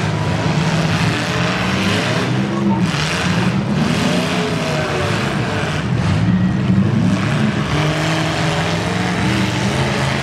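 Engines of several demolition derby cars running and revving together, a continuous din that rises and falls in pitch.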